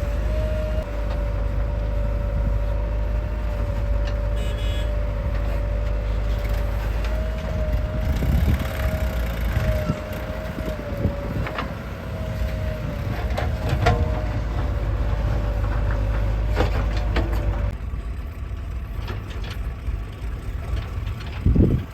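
Heavy diesel machinery running at a mud-loading site, a JCB 3DX backhoe loader working alongside tractors: a deep, steady engine rumble with a high, slightly wavering whine that stops about four seconds before the end, and a few scattered knocks.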